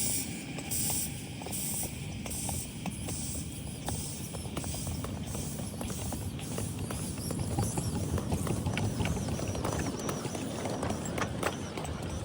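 Miniature live steam locomotive running on 7.5-inch gauge track. Its exhaust chuffs come a little more than once a second and fade away over the first half, leaving a low rumble with many wheel clicks over the rail joints.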